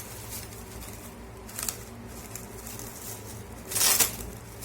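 Plastic cling film crinkling and rustling as it is stretched over a bowl of dough, with a louder crackle about four seconds in.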